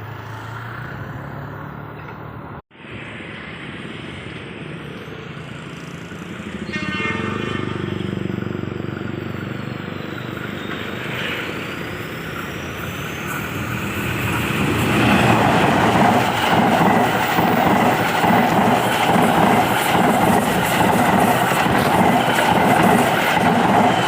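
A diesel-hauled train approaching and passing on a curve, with a short horn blast about 7 s in. From about 15 s it passes close and loud, the wheels clattering rhythmically over the rail joints.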